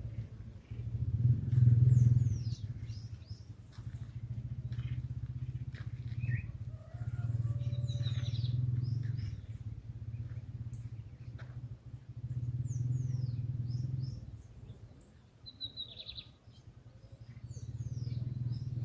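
Small birds chirping, short high downward-sweeping notes repeated at intervals, over a low rumble that swells and fades every few seconds.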